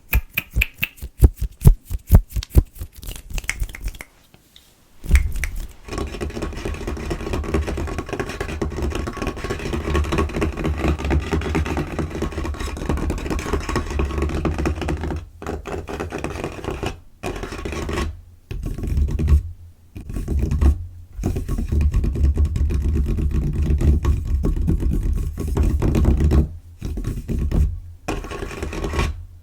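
Fingers tapping fast on a table for about four seconds, then rapid scratching and scurrying of fingertips and nails across the tabletop, broken by a few brief pauses.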